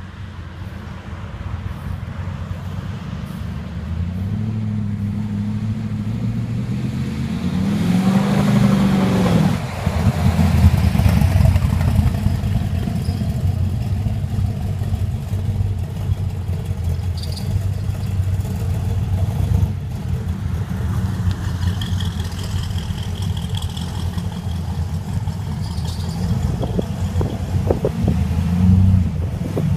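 1978 Jeep CJ-7's 572-cubic-inch (9.4 L) big-block V8 running at low speed with a deep exhaust note, revving up and back down about eight seconds in, then running on loud at a steady pace, with a short blip near the end.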